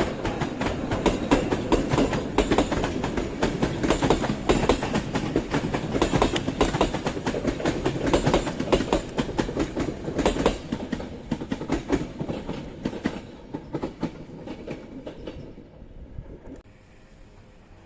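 A train rolling past, its wheels clattering over rail joints in a dense clickety-clack with rumble underneath; the sound fades over the last few seconds.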